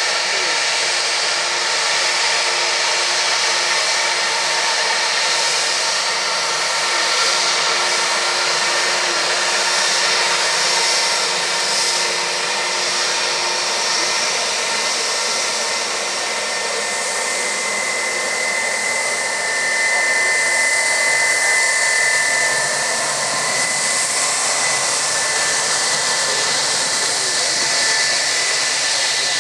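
Jet airliner engines running loud and steady: a high rushing hiss with turbine whine tones, one whine growing stronger for several seconds past the middle.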